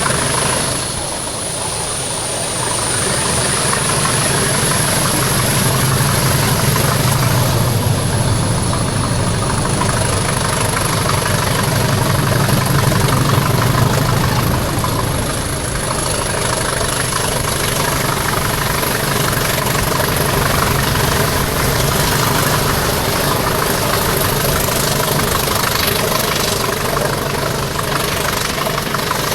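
Diesel locomotive engine running steadily, with a high turbocharger whistle over the engine note.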